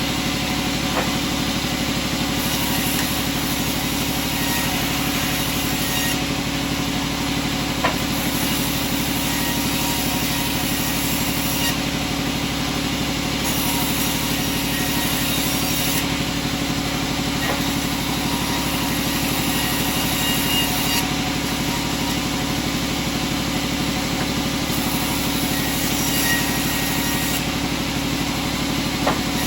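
Sawmill machinery running steadily, a constant engine-like drone with a few short knocks, one about eight seconds in.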